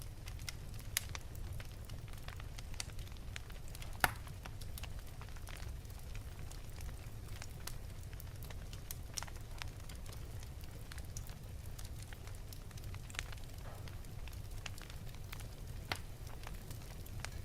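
Wood fire burning in an open fireplace, a steady low rumble with scattered sharp crackles and pops, one louder pop about four seconds in.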